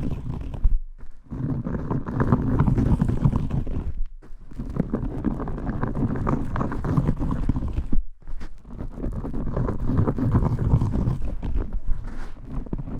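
Vigorous shampoo scrubbing close to the microphone: a dense, crackly, squelching rub of lathered hair. It runs in long bouts that break off briefly about a second in, about four seconds in and about eight seconds in.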